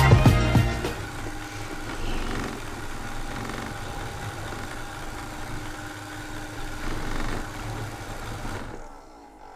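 ILIFE V7 robot vacuum running with a steady motor hum, then suddenly cutting out near the end. The sudden shutdown comes with no error and acts as if the battery were totally empty, although it had been fully charged.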